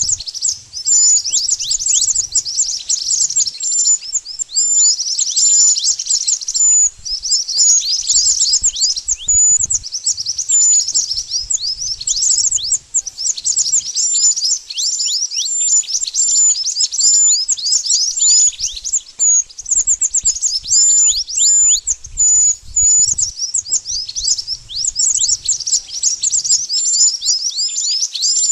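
Song of the bird called mantenan in Indonesia: a continuous, dense stream of very high, thin, rapid chirps and down-slurred notes, with a short high whistle repeated about once a second. A recording used as a lure (pikat) to draw in birds.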